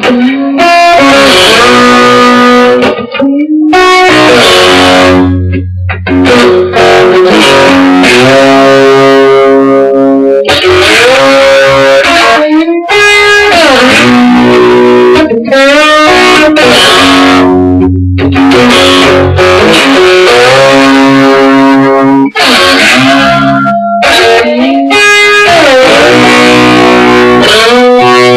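Guitar playing an instrumental song intro: loud, full chords in repeated phrases, with some notes bending in pitch.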